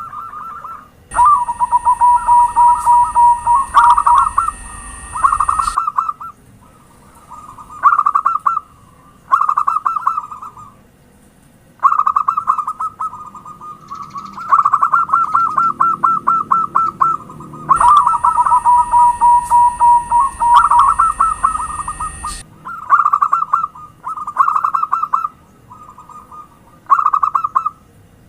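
Zebra dove (perkutut) cooing in repeated phrases of rapid, stuttering notes, each phrase a second or two long with short pauses between. Two longer, louder passages near the start and about two-thirds through carry a faint steady high whine and hum behind them.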